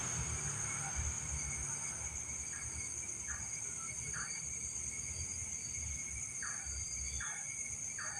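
Night insects, crickets, chirring steadily at several high pitches, with a few short, fainter calls now and then and a low rumble underneath.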